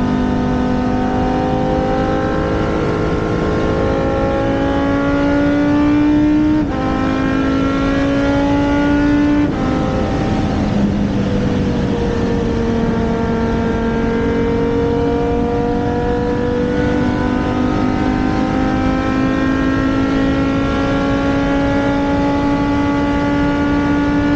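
Dinan BMW V10 engine of a Riley Daytona Prototype running hard on track. Its note climbs steadily, drops sharply twice as the gears change, then pulls up slowly again in one long climb.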